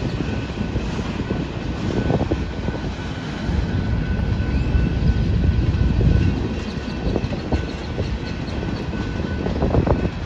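Covered hopper cars of a freight train rolling past: a steady low rumble, with a faint steady high tone over it and a few sharp knocks near the end.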